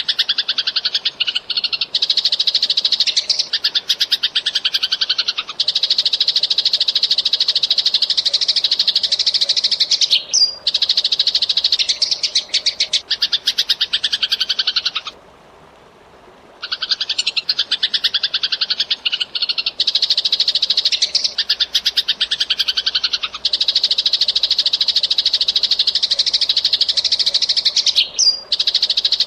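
Eurasian tree sparrow chirping in long, fast, tightly packed runs of rapid high notes, with a short break about halfway through.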